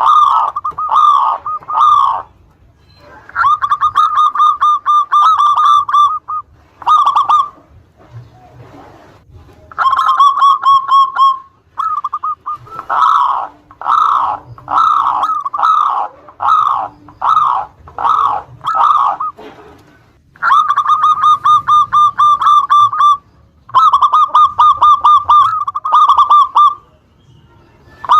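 Zebra dove (perkutut) cooing over and over: phrases of quick, evenly repeated notes near 1 kHz alternate with series of separate falling coos, each phrase lasting a few seconds with short pauses between.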